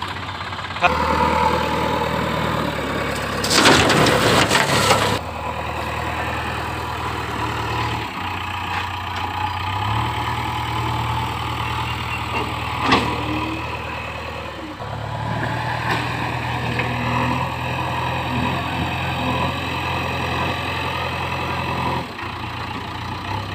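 Heavy diesel engine running steadily, its note changing abruptly several times. A loud rushing noise lasts about two seconds, a few seconds in, and a sharp click comes about halfway through.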